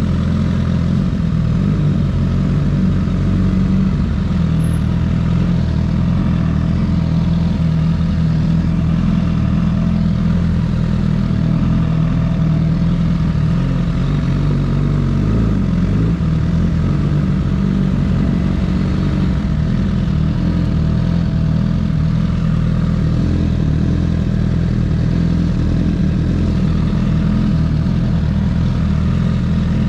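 Honda CBR1000RR SP1's inline-four engine running steadily, its pitch wavering briefly about halfway through.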